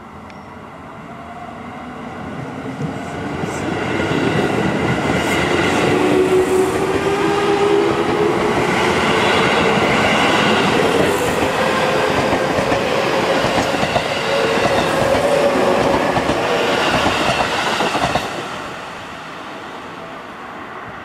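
Seibu 9000 series electric commuter train running close past, wheels clattering over the rail joints and motors whining slowly higher as it picks up speed. It builds over the first few seconds, stays loud for more than ten, then falls away sharply near the end as the last car passes.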